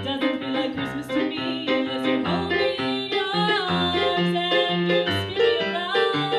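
Keyboard playing a bouncy instrumental polka, with an even oom-pah bass under short chords and melody notes.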